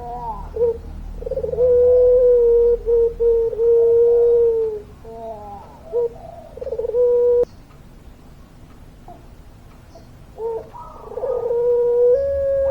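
Puter pelung dove cooing in long, drawn-out held notes. It sings two long phrases, stops for about three seconds, then starts a new phrase whose last note is held past the end.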